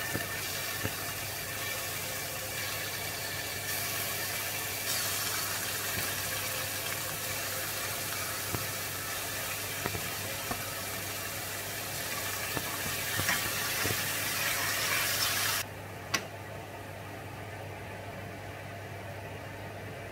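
Marinated chicken breast pieces sizzling in hot oil with garlic in a stainless steel frying pan, a steady frying hiss that cuts off suddenly about three quarters of the way through. A single sharp click follows, and a low hum runs underneath.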